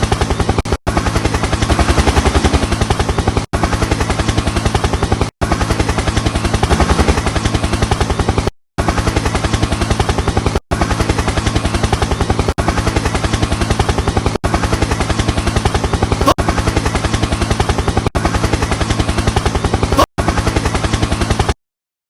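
Helicopter rotor blades chopping in a fast, steady pulse over a low hum, cut off abruptly for an instant several times and stopping suddenly near the end.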